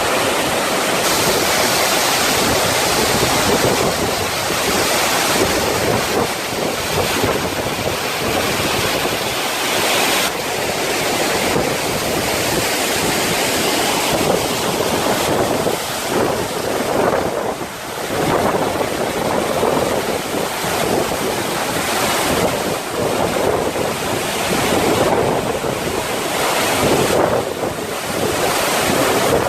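Waterfall rushing in a loud, continuous roar of falling water, with wind buffeting the microphone at times.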